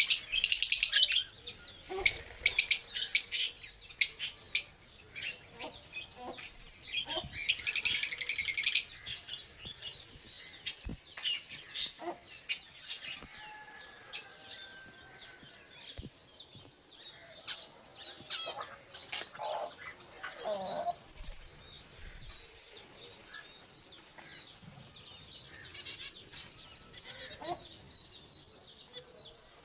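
Lovebirds chirping, with loud bursts of shrill calls in the first nine seconds, then softer, scattered chirps.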